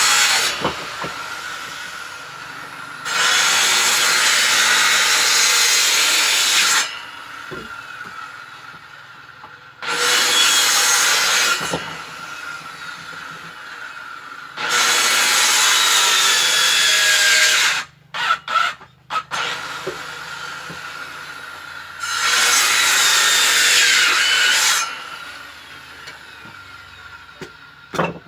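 Power saw cutting firewood, biting into wood in a series of loud cuts of a few seconds each. The motor keeps running more quietly between cuts.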